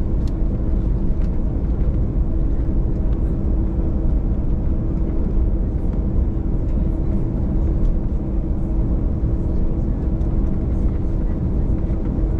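Jet airliner's engines heard from inside the passenger cabin: a steady, loud drone with a constant hum and no change in level.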